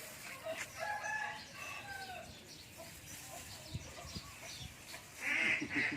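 Chickens calling: a drawn-out pitched call in the first two seconds, then a loud burst of repeated clucks near the end.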